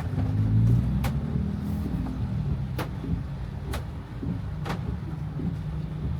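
A car driving: a low engine and road rumble that swells just under a second in, with a few sharp ticks roughly a second apart.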